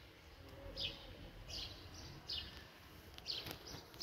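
A small bird chirping repeatedly, short high notes that fall in pitch, coming roughly once every half to one second. A single sharp click about three and a half seconds in.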